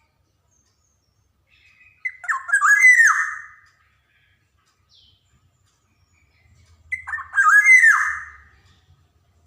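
Black-naped oriole (Javan kepodang) singing: two loud, fluting phrases, one about two seconds in and one about seven seconds in, each a quick run of whistled notes with sharp downward slurs.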